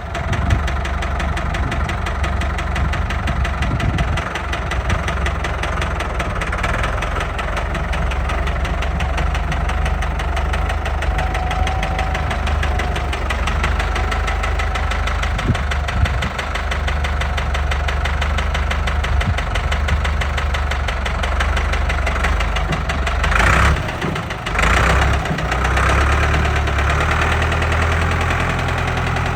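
Ford 6610 tractor's diesel engine running steadily at idle, with a dense rapid beat. The sound briefly changes twice near the end.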